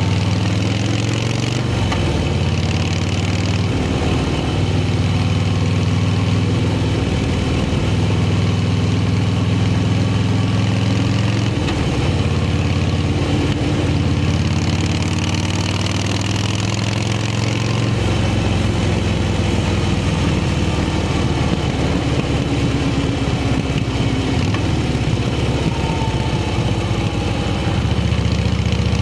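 Harley-Davidson V-twin motorcycle engine running, its note shifting in steps several times.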